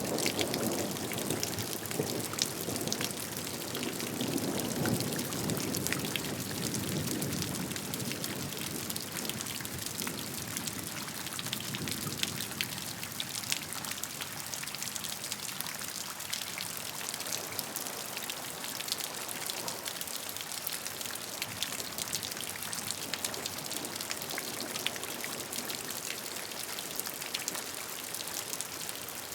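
Steady rain with many individual drops pattering on a surface, heavier and fuller in the first several seconds, then settling to a lighter, even patter.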